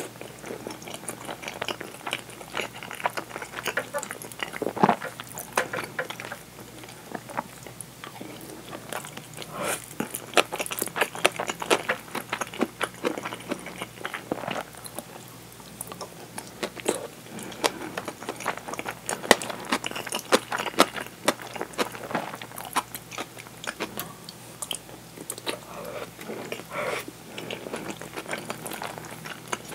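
Close-miked chewing of curry rice with fried egg and pickled relish: irregular wet mouth clicks and smacks through the whole stretch, with bursts of denser clicking from time to time.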